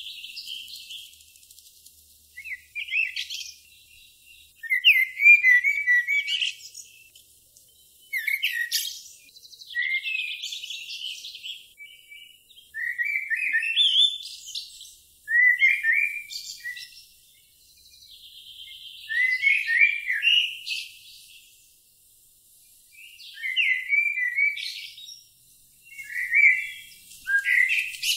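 Songbirds singing: short chirping and trilling phrases about every three to four seconds, with a few thin held whistles between them.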